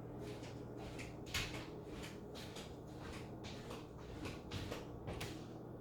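A string of irregular knocks and clicks, about a dozen, over a steady low hum; the sharpest knock comes about a second and a half in.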